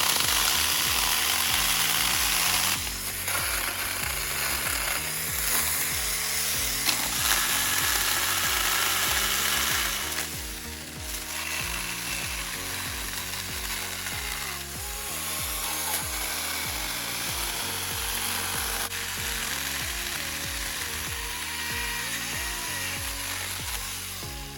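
Small battery-powered mini chainsaw (Saker, 20-volt) cutting through brush and branches, with background music underneath. The cutting is loudest for the first ten seconds or so, then carries on more quietly.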